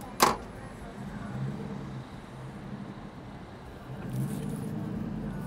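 A single sharp knock about a quarter second in, then a motor vehicle's engine running at low speed, growing louder about four seconds in.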